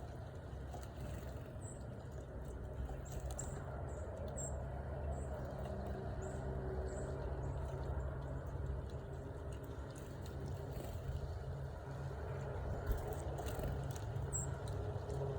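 Small birds giving short, high-pitched chips, scattered through the first few seconds and once more near the end, over a steady low rumble.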